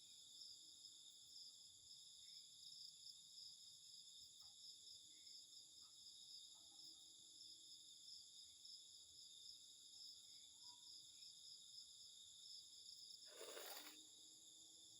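Faint, steady chorus of night crickets: several high-pitched trills held without a break. About thirteen seconds in, a short rush of noise rises over them and is gone within half a second.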